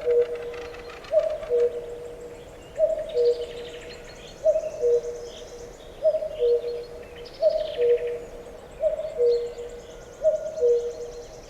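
A bird calling in two notes, a higher note dropping to a lower one, repeated steadily about every second and a half. Smaller birds chirp and trill faintly higher up.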